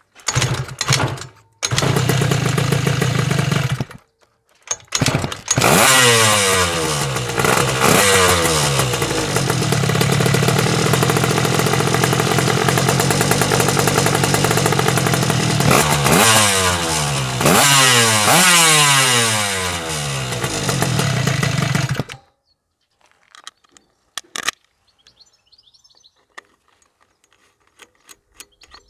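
Yamaha Jog scooter's 70cc two-stroke engine, fitted with a Stihl MS180 chainsaw ignition and carburettor, runs loudly through an expansion-pipe exhaust. It catches and dies twice, then runs steadily with two rise-and-fall revs before cutting off sharply about 22 seconds in. A few faint clicks follow.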